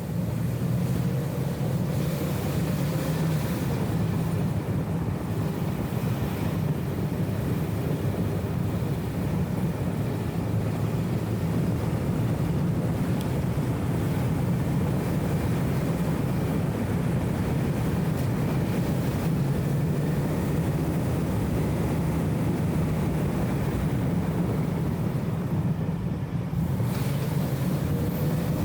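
BMW E34 M5 Touring's straight-six engine and road noise at a steady cruise: an even low drone with no revving, dulled by a wind-noise filter.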